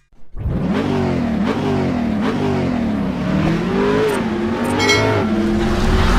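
Motorcycle engine revving, its pitch rising and falling again and again, starting just after a brief silence.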